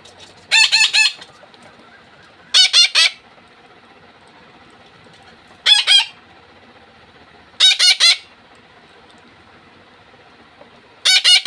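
Pet parakeets calling in five short bursts of three or four rapid shrill notes each, a few seconds apart: hungry birds begging at the sight of their food.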